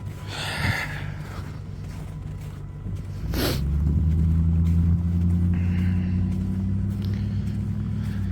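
Motor vehicle engine running with a steady low hum, growing louder about three and a half seconds in after a brief whoosh, then holding steady.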